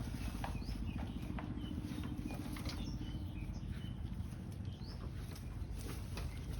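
Scattered short, high chirps from small animals over a steady low rumble, with a few sharp clicks.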